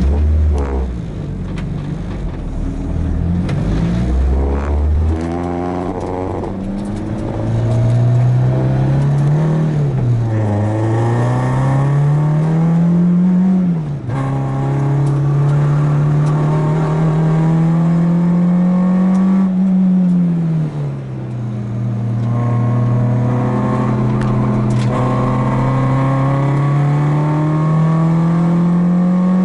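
Renault Clio 2 RS's four-cylinder engine, heard onboard, pulling away from a low rumble and then accelerating hard, its pitch climbing through the revs and dropping sharply at each gear change, with a slower fall near the middle as it slows before climbing again.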